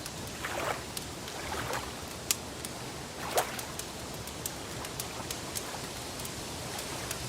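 Wood fire crackling: irregular sharp snaps and pops over a steady soft hiss, with two louder pops a little past two and three seconds in.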